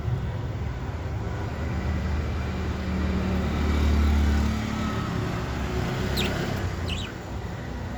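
Low rumble of a passing road vehicle, swelling to its loudest about four seconds in and then easing off. Near the end, two brief high chirps from budgies.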